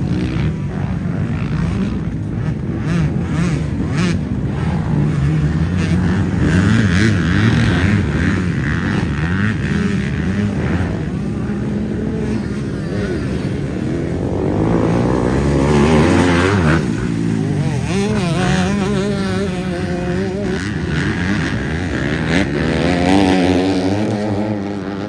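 Motocross bike engines running hard on the track, the pitch rising and falling as they rev through the gears, with a strong rev-up and drop about two-thirds of the way through.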